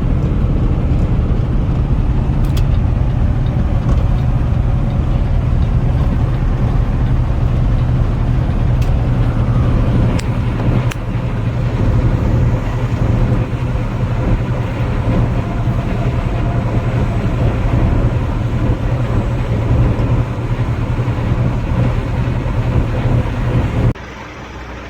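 A truck drives at road speed with a steady, low engine and road rumble, which cuts off abruptly near the end.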